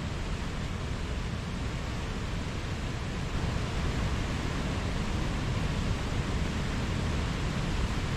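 Mountain stream flowing: a steady rush of water over rocks.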